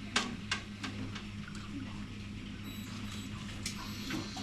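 A steady low hum with a handful of sharp clicks, most of them in the first second or so.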